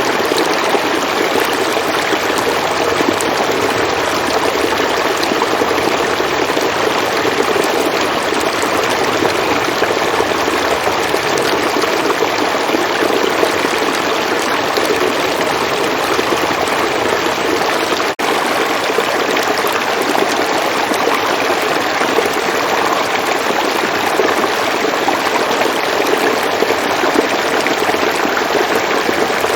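River water flowing, a steady rushing babble of a stream, with one momentary dip about eighteen seconds in.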